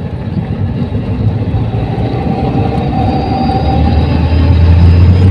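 Engine and road noise heard from inside a moving vehicle: a low drone that grows louder toward the end, with a faint steady whine above it.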